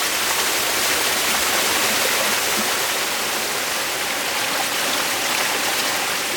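Pressurised water gushing steadily out of a microhydro turbine's supply pipe, which has pulled out of its coupling after the spear valve was removed. A loud, continuous hissing rush of escaping water.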